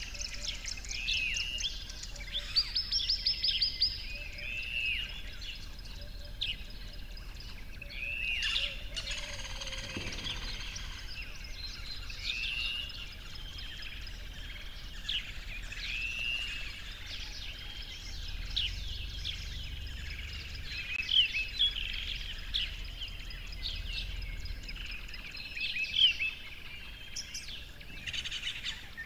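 Several birds singing and calling over a faint outdoor background: repeated short whistled notes that rise and fall, with quick trills mixed in.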